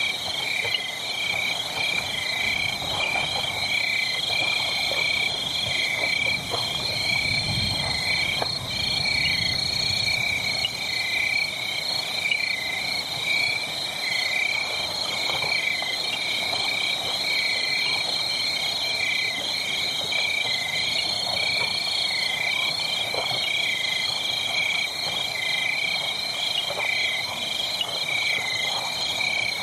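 A dense, steady chorus of high-pitched, rapidly pulsing animal calls, with faint scattered crackles of a burning wood fire underneath.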